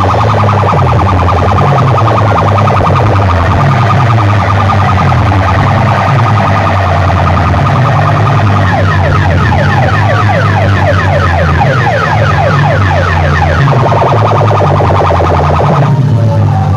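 A DJ sound system blasting a siren-like electronic effect: a fast, repeating warble of short falling pitch sweeps over a heavy, steady bass. It is very loud throughout.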